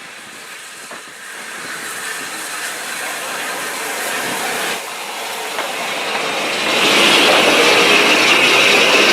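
Steam train approaching, growing steadily louder, then much louder with a strong hiss from about seven seconds in.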